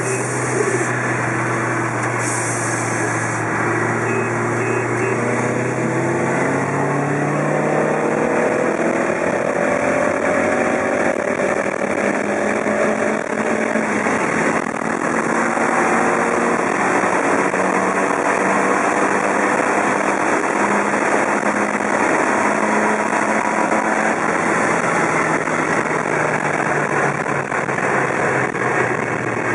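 Cabin sound of a turbocharged Nissan S14a accelerating hard: the engine note climbs slowly through a long pull over the first dozen seconds, with two brief hisses in the first few seconds. After that comes steady engine, wind and road noise at speed.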